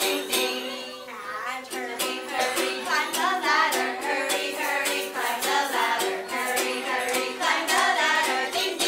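Ukulele strummed in a steady rhythm with a voice singing a children's song over it.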